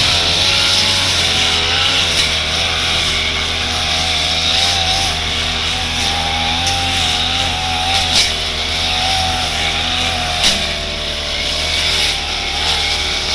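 Brush cutter with a metal blade running at full throttle, its engine pitch wavering slightly as it cuts thick grass. A few sharp clicks come through, one about eight seconds in and another about ten seconds in.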